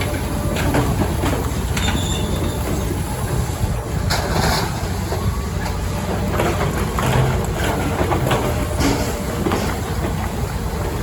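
Unloading machinery running with a steady low rumble, with scattered knocks and clatter throughout.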